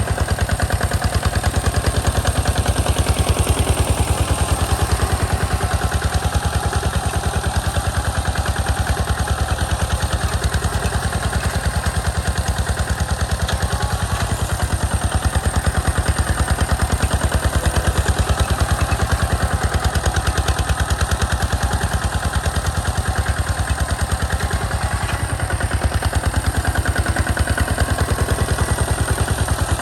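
Single-cylinder diesel engine of a walk-behind hand tractor running steadily with a rapid, even chugging beat.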